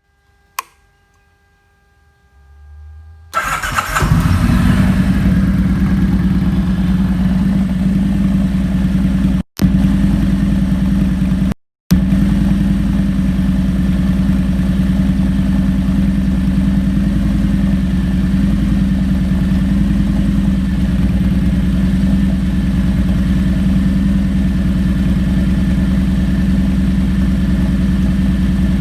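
Kawasaki Vulcan 1700 Vaquero's V-twin, through a DanMoto Highwayman 2-into-1 full exhaust, being started: a click, brief cranking, then the engine catches about three seconds in and settles into a steady, loud idle. The sound drops out for a moment twice.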